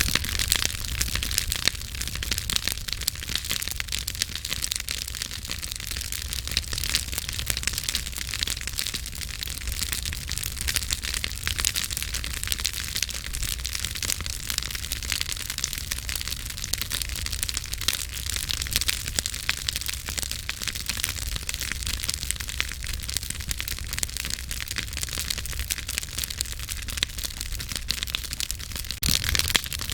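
Campfire burning, wood crackling and popping in dense, irregular snaps over a low steady rumble of the flames.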